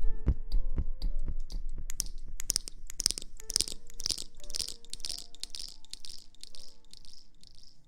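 ASMR rustling: a regular run of soft, hissy swishing strokes, about two a second, beginning about two seconds in. At the start a few soft low thumps fade out, and faint steady tones lie underneath.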